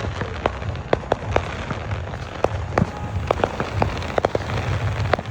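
Backyard fireworks and firecrackers going off around the neighbourhood: a continuous irregular run of sharp pops and cracks, several a second, over a steady low rumble.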